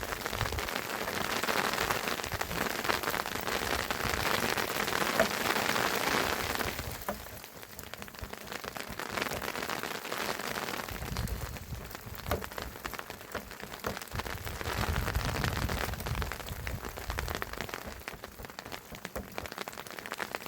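Crackling and hissing of a freshly lit wood fire being fanned to get it going, loudest in the first seven seconds, with two stretches of low rumble in the second half.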